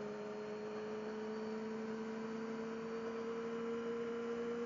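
A 600 cc motorcycle's engine heard muffled as a steady droning note, its pitch climbing slowly as the revs build.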